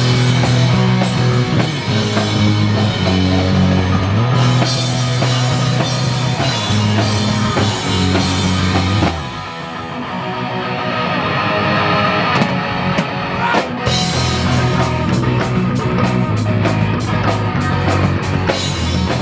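Rock band playing an instrumental passage: electric guitar, bass guitar and drum kit. About nine seconds in the bass and drums drop away, leaving a sustained guitar passage, and the full band comes back in about five seconds later.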